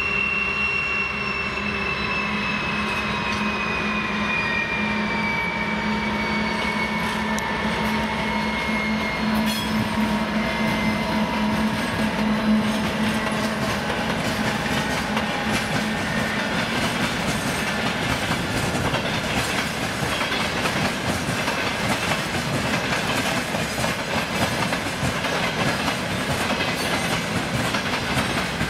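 Two-section 2TE116 diesel locomotive passing with a loaded tank-car train. Its 16-cylinder turbocharged diesel engines hum with a high whine that slowly falls in pitch as the locomotives go by. About halfway through the engine sound gives way to the steady rolling and clickety-clack of tank-car wheels over rail joints.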